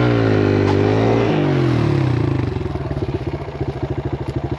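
Kawasaki KLX140L dirt bike's single-cylinder four-stroke engine revving up and holding high revs, then dropping about a second in and settling to low, pulsing revs.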